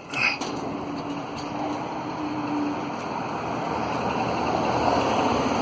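Wind and road noise from riding a bicycle, a steady rush with a faint steady hum through the first half that grows a little louder near the end.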